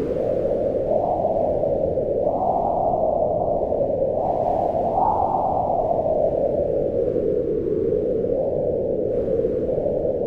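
Wind blowing in a steady, low rushing tone whose pitch swells up twice, about two and five seconds in, and then slowly sinks.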